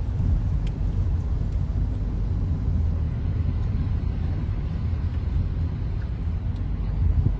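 A vehicle driving along: a steady low rumble of engine and road noise.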